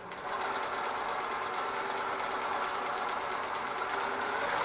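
NMD-2312D heavy-duty walking-foot zigzag industrial sewing machine starting up and running steadily at speed, sewing at a shortened stitch length.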